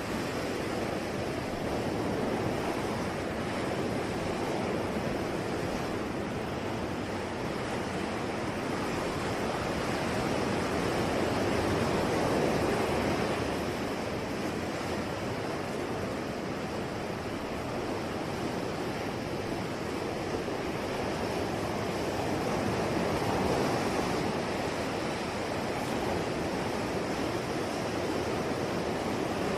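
Ocean waves breaking and washing on the shore, a steady rushing surf that swells gently about twelve seconds in and again near the end.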